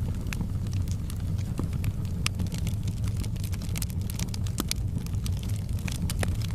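Fire burning in a fireplace: a steady low rumble of the flames with frequent sharp crackles and pops scattered through it.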